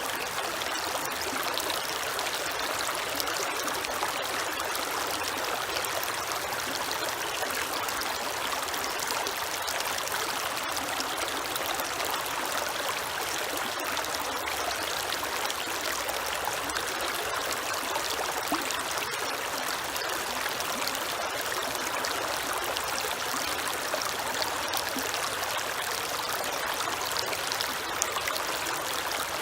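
Creek water flowing and splashing steadily over stones, a continuous even rush with small trickles and drips.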